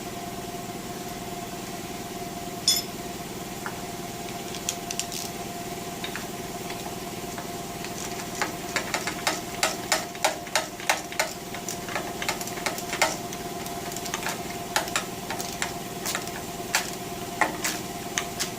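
Hand wrench clicking and clinking against metal while working at the oil pan of a small-block Chevy 350. The sharp clicks come one early, then about two a second through the middle and later part, over a steady shop hum.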